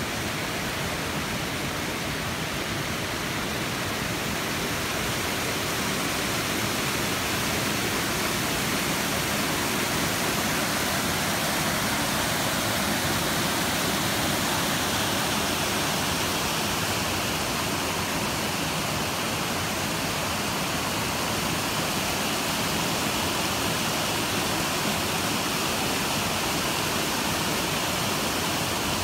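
Waterfall: a steady, unbroken rush of falling water, growing slightly louder about five seconds in.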